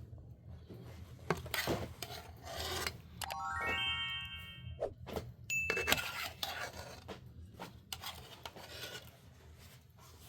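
Scraping and rubbing strokes with knocks and clatter of cooking utensils. A brief bright ringing sound of several tones comes about three to four seconds in.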